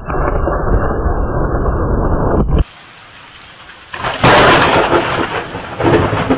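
Thunderstorm: a deep thunder rumble over rain, cut off abruptly about two and a half seconds in, then a quieter hiss of rain until a loud thunderclap breaks about four seconds in and rolls on.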